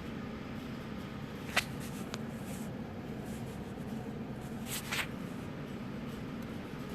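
Steady low room hum with a few short clicks: one about a second and a half in, a fainter one half a second later, and a quick pair near the five-second mark.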